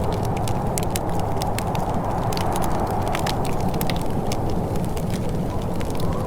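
Wood fire crackling, with frequent sharp irregular pops and snaps over a steady low rushing sound.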